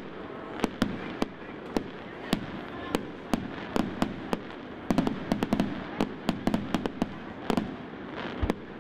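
Aerial fireworks display: shells bursting overhead in a string of sharp, irregular bangs and crackles, bunching into a quick run about halfway through, over a steady background din.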